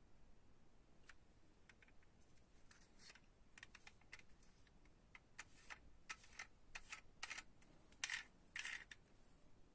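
Light clicks and taps of small diecast toy cars being handled, getting busier as it goes, with two louder short clatters near the end.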